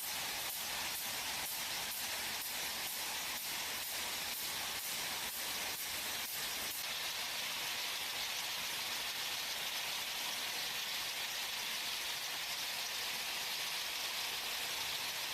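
Factory machinery: a steady hiss with a regular ticking, about two or three ticks a second, that stops about seven seconds in while the hiss goes on.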